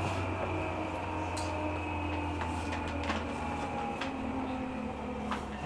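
Interior running sound of a JR 205-series electric commuter train nearing a station: a steady low rumble that fades about three to four seconds in, faint tones that drop in pitch as the train slows, and a few sharp clicks.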